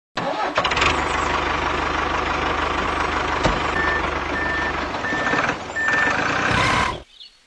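A vehicle engine runs loudly. In the second half a reversing alarm beeps four times, about 0.6 s apart. Everything stops abruptly about a second before the end.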